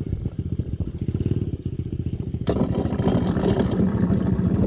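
Dirt bike engine running at low revs with a steady pulsing, getting louder and noisier suddenly about halfway through.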